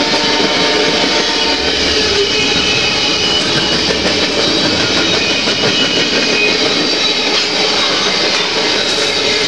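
Freight train cars rolling past close by: a loud, steady rumble and rattle of steel wheels on the rails.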